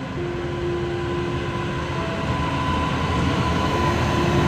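Electric locomotive hauling a passenger train past at close range, a steady rumble of the locomotive and wheels on the rails with a steady hum on top. It grows louder as the locomotive draws level.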